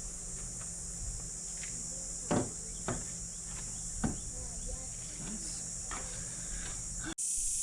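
Steady high-pitched chorus of crickets, broken by a few light knocks about two, three and four seconds in.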